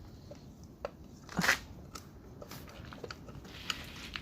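Hands working on the recoil starter and its bolts: scattered light clicks and taps, with one short, louder scrape or rattle about one and a half seconds in.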